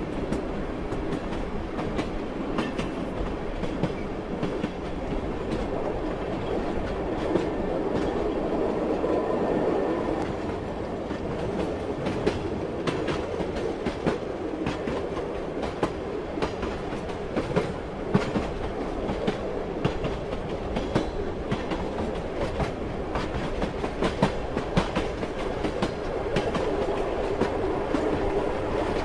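Train running on the rails with a steady rumble, the wheels clacking over the rail joints in irregular clicks that come more often in the second half.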